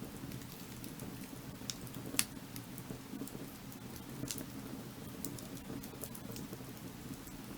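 Firewood burning, crackling with scattered sharp pops and snaps over a steady low rush; the loudest pop comes about two seconds in.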